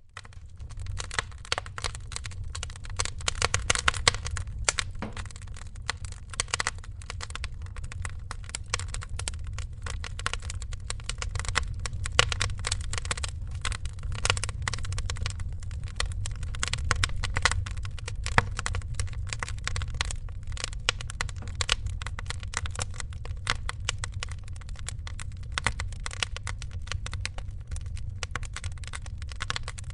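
Wood fire crackling and popping irregularly over a steady low rumble, fading in from silence at the start.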